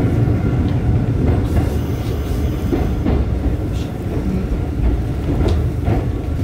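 Mizuma Railway 1000 series electric train running on the rails, heard from inside the car: a steady low wheel-and-track rumble with irregular clicks as the wheels cross rail joints.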